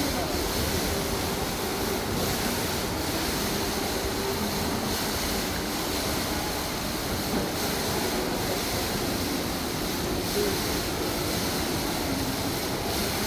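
Indoor waterfall: a steady rush of falling water that holds at one even level throughout.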